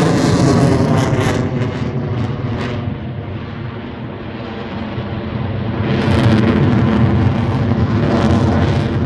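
Aircraft engine noise from an air-show flypast, falling in pitch as the aircraft passes and fading, then a low rumble swelling again about six seconds in.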